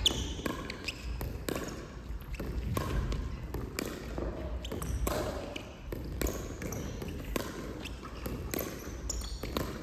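Pickleball play: paddles striking a plastic ball and the ball bouncing on the court, heard as frequent, irregular sharp pops.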